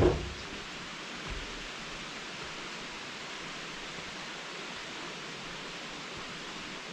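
Steady rushing, hissing background noise, with a sharp knock at the very start and a soft low thud about a second later.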